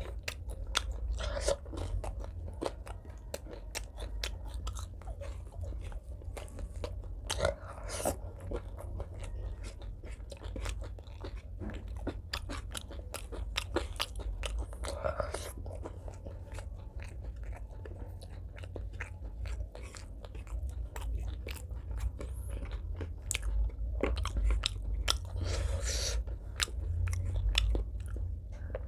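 Close-miked eating by hand: chewing and crunching of fried fish and rice, with many small irregular mouth clicks. A steady low hum runs underneath.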